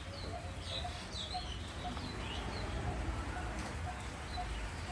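Small birds chirping in short high glides, with a short note repeated about twice a second, over a steady low rumble.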